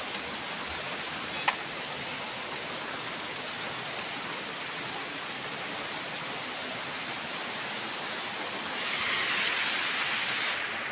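Steady rain falling, growing louder for about two seconds near the end, with a single sharp click about one and a half seconds in.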